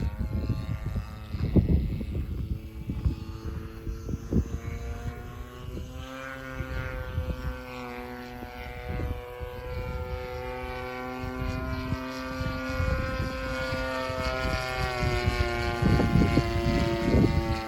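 DLE 30 single-cylinder two-stroke gasoline engine of an RC model plane running in flight, its drone drifting up and down in pitch as the plane moves around. Wind buffets the microphone near the start and again near the end.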